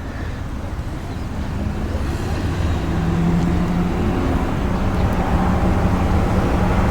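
A motor vehicle's engine running with a low, steady hum that grows gradually louder.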